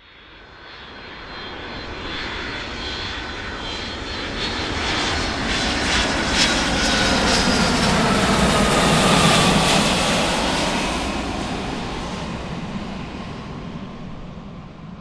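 Aircraft engines of a transport plane passing close by: the noise swells to a peak about two-thirds of the way through, then fades. A whine drops steadily in pitch as the plane goes past.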